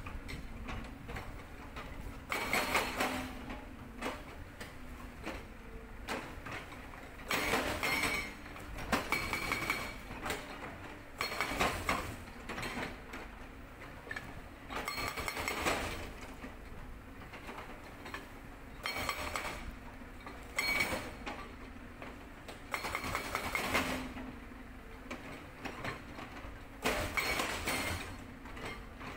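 Sangdo SD220 hydraulic breaker on a Cat 320D excavator hammering rock in bursts of one to three seconds, seven times, with the excavator's diesel engine running steadily between and under them.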